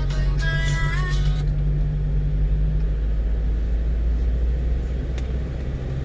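Engine of a 1-ton truck heard from inside the cab, pulling steadily under load up a steep grade. A brief snatch of music plays over it in the first second and a half.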